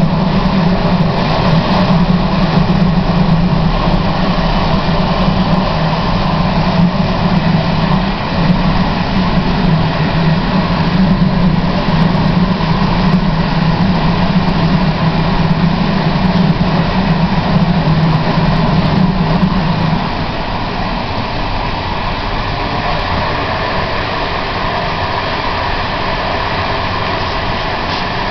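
Prague Metro train running, a steady rumble with a strong low hum. About twenty seconds in the hum stops and the running noise becomes a little quieter.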